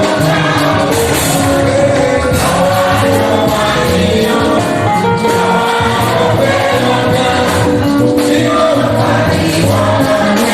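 A church choir singing gospel music with instrumental accompaniment and percussion.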